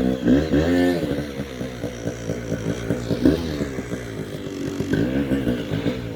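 Enduro motorcycle engine revving, its pitch rising and falling as the throttle is opened and closed.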